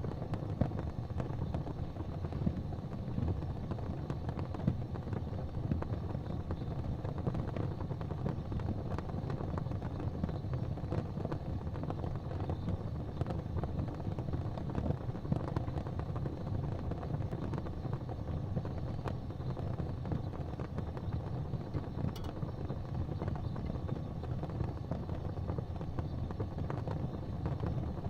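Fire burning in a fireplace: a steady low rumble with faint, scattered crackles.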